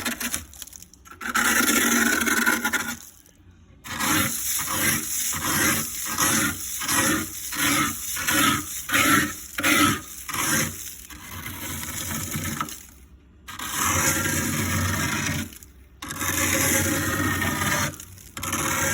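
Built-up ice being scraped off the inside of a deep freezer: long, slow scraping strokes, then a run of quick short strokes about two a second, then long strokes again.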